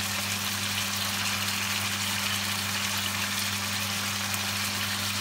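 Diced chicken breast sizzling steadily in hot oil in a nonstick wok, over a steady low hum.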